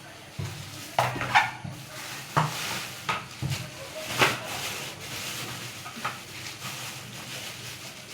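Irregular rustling and light knocks of vegetables and their bags being handled, about half a dozen louder rustles in the first half.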